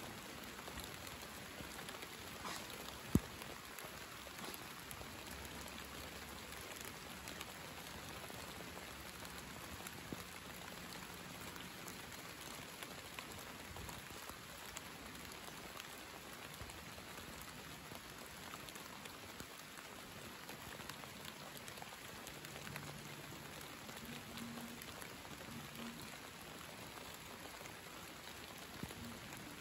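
Steady summer rain: an even hiss of falling drops with scattered individual drips, and a single sharp click about three seconds in, the loudest moment.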